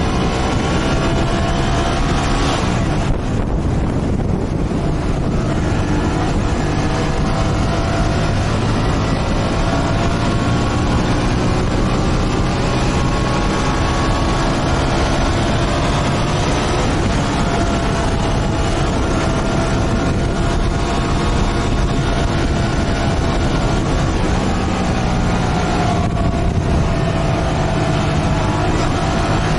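Motorcycle engine running on the move, its pitch slowly rising and falling with the throttle, over a steady rushing noise. The high end drops off briefly twice, a few seconds in and near the end, as if the throttle eases.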